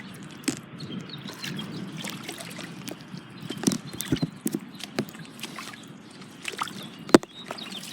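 Rubber boots sloshing and splashing through deep puddles of floodwater in uneven steps, with a single sharp knock about seven seconds in.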